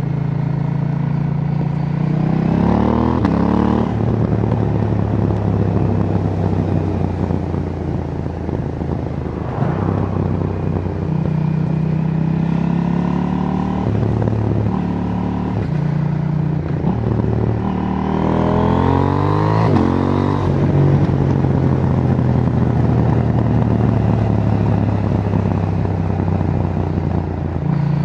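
KTM 790 Duke's parallel-twin engine through its stock exhaust, pulling under throttle while riding. The engine note rises sharply twice, once near the start and again around the middle, and settles to a steady cruise in between, with a few shorter changes in pitch.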